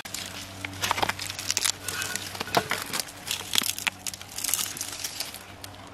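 Crinkling and crackling, as of something being handled or crumpled: irregular sharp clicks and rustles over a steady low hum.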